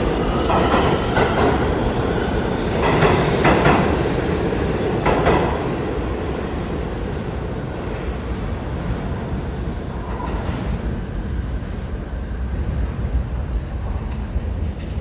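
New York City subway R211 train running on the rails. Its wheels click over rail joints in the first few seconds, then it settles into a steadier, quieter rumble.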